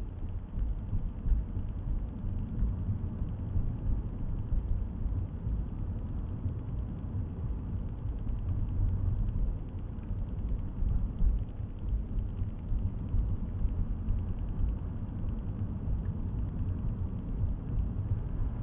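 Steady low rumble of a car driving, heard from inside the cabin: tyre, road and engine noise, with no sudden events.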